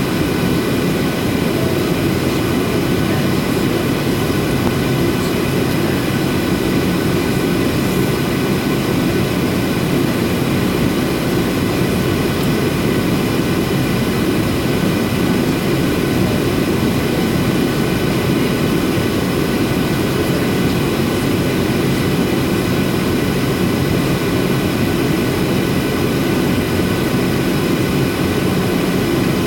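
Boeing 737-800's CFM56-7B jet engines running steadily: a constant roar with a steady high whine of several fixed tones over it.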